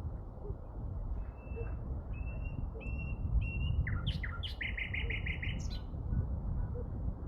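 A songbird singing: four short whistled notes, then a few quick falling notes running into a rapid trill of about seven notes. A steady low rumble runs underneath.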